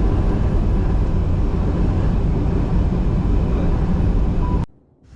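Steady low rumble of a moving vehicle with wind noise, cutting off abruptly about four and a half seconds in.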